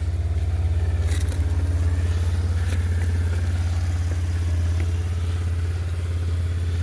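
Small engine of a mini rock crawler running steadily at low revs, an even low hum with a few faint knocks.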